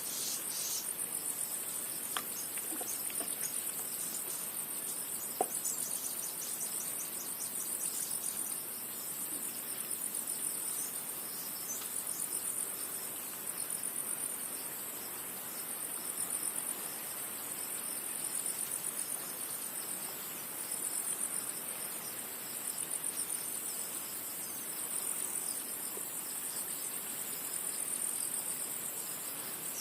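Insects chirping in a steady, high-pitched pulsing chorus, with a couple of faint clicks about two and five seconds in.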